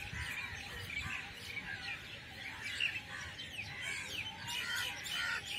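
Wild birds chirping and singing: many short, overlapping calls, with quick falling notes clustered about four to five seconds in.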